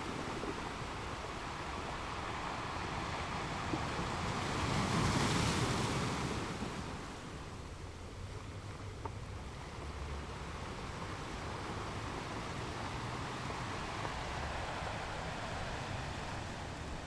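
Ocean waves washing onto a shore; one wave surges louder about five seconds in and falls back to a softer steady wash by about seven seconds.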